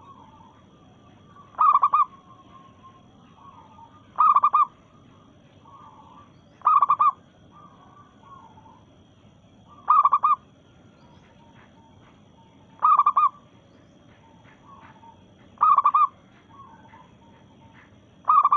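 Female zebra dove (perkutut) calling: a short, loud cooing phrase repeated seven times, about every three seconds, with softer coos between.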